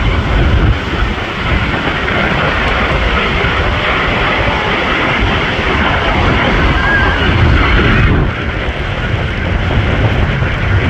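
Airshow aircraft engine noise, a steady loud rush with heavy low rumble, mixed with wind buffeting the microphone.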